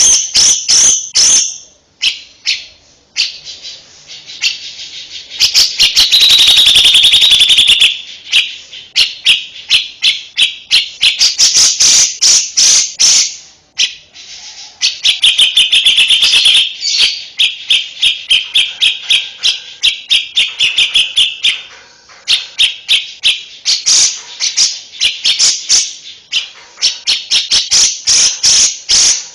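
Songbird singing a fast, loud stream of sharp chips and trilled phrases. The song stops briefly twice, about two seconds in and again around the middle. Longer buzzy trills come at about a quarter of the way through and again just past the middle.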